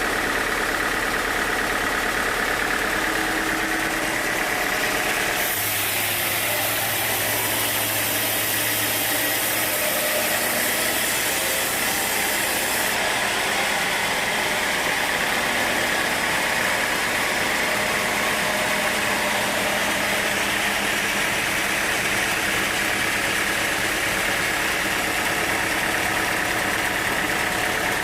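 Sawmill machinery running steadily. A higher hiss joins in about five seconds in and drops away about seven seconds later.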